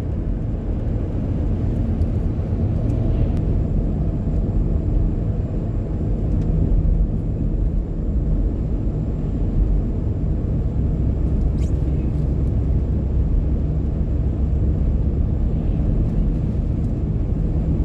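Steady road rumble of a car driving on a snowy road, heard from inside the cabin: engine and tyre noise, strongest in the low end.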